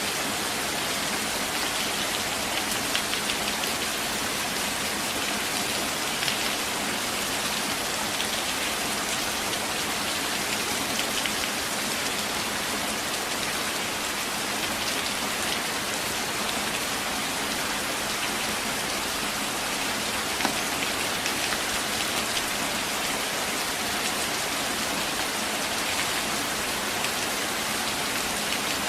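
Steady rain, a dense even hiss, with scattered closer drops ticking now and then.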